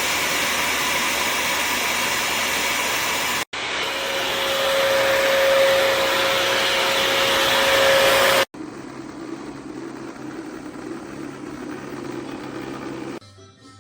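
Bissell CrossWave HydroSteam wet-dry floor cleaner's vacuum motor running, heard in three clips with abrupt cuts between them. The middle clip carries a steady whine, and the last, a little before the end, is quieter.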